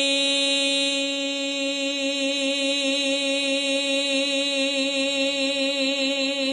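A woman's voice holding one long sung tone at a steady pitch with a slight waver, used as a toning exercise to send vibration into tension in her neck and shoulders.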